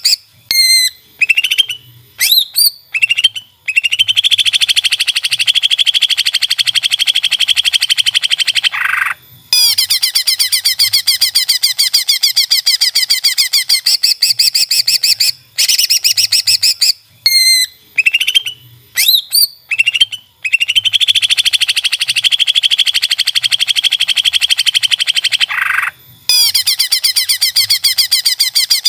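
Cucak ijo (leafbird) song: long runs of rapid, dense chattering trills broken by short rising whistled notes. The same phrase sequence repeats about every 16 to 17 seconds, as a looped recording.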